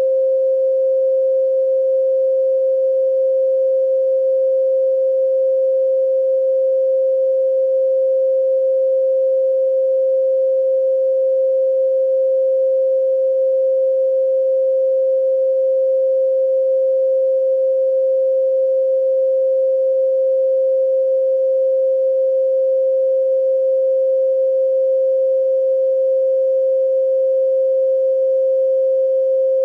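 A steady, unbroken pure sine tone at 528 Hz, held at one pitch and level.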